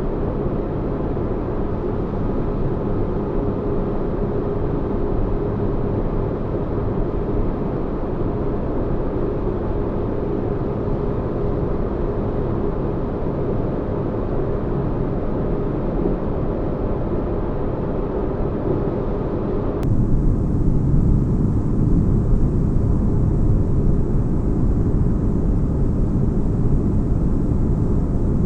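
Sci-fi spaceship ambience: a steady low drone of deep bass noise with a faint held tone in it. About twenty seconds in, the bed switches abruptly to a louder, deeper drone with a thin hiss added on top.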